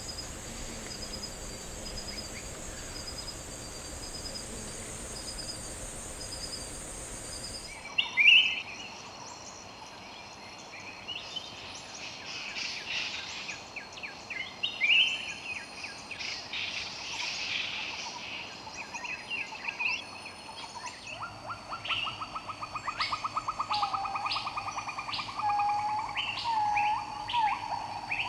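A steady high insect buzz with a regularly pulsing chirp, which cuts off about eight seconds in. Then several rainforest birds call with sharp chirps and whistles. From about two-thirds of the way in, a fast trill and a run of repeated lower notes join them.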